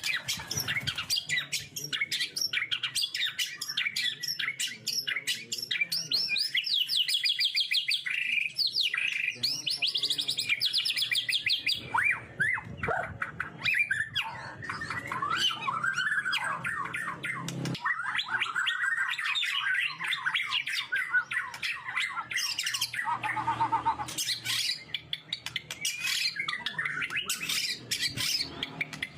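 Songbird singing continuously in rapid trills, quick rising sweeps and harsh chattering notes, after a gurah treatment meant to clear a heavy or hoarse voice.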